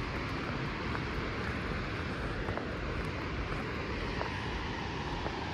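Steady rushing roar of a waterfall, an even wash of noise with no breaks.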